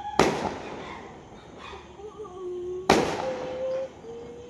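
Fireworks exploding: two loud bangs about two and a half seconds apart, each trailing off over a moment.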